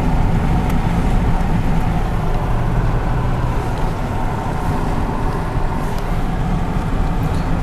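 Car cabin noise while driving: steady road and engine rumble.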